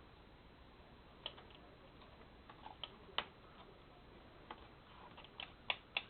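Faint, irregular small clicks and taps of hands working paper cut-outs and glue, starting about a second in.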